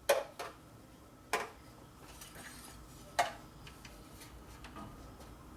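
Metal tools and parts clinking as they are handled: a few sharp clinks at uneven intervals, two close together at the start, then single ones about a second and three seconds in.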